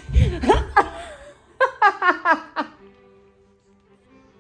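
A woman's excited wordless cries, then a quick run of short laughs that dies away about a second later, leaving faint steady background music.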